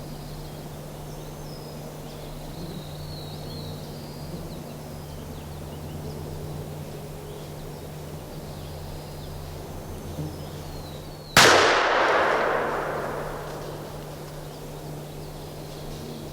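A single shotgun blast about eleven seconds in, its echo dying away over a couple of seconds: the one shell that drops two turkeys. Before it, faint bird chirps over a steady low hum.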